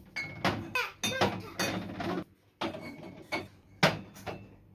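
Groceries and kitchen items knocking and clattering as they are handled and set down while being unpacked, a quick irregular run of sharp knocks with a short pause about halfway through.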